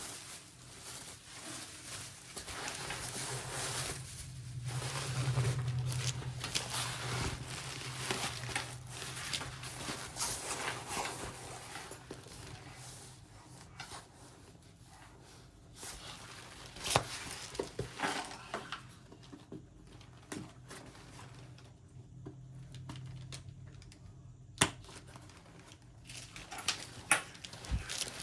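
Handling noise from a laptop backpack being unboxed and looked over: rustling of fabric and packaging with scattered sharp clicks, more of them in the second half, and a low hum that swells twice.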